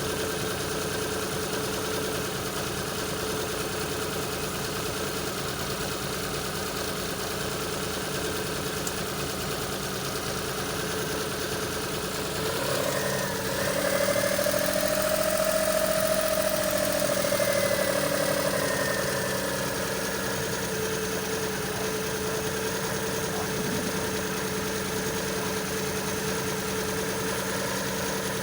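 Suzuki F6A three-cylinder engine idling steadily, its speed rising smoothly about halfway through and settling back down a few seconds later: an unstable, hunting idle.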